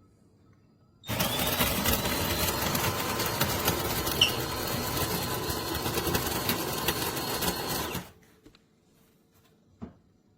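Built-in burr grinder of a De'Longhi Rivelia automatic espresso machine grinding coffee beans for a latte, starting abruptly and running for about seven seconds before cutting off. A faint click follows near the end.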